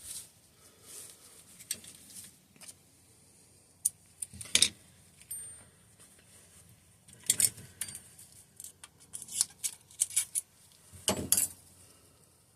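Small metal parts of a hydraulic disc brake lever and hand tools clinking and tapping on a workbench while the master cylinder is taken apart: scattered light clicks, a cluster of them in the middle, and a louder knock near the end.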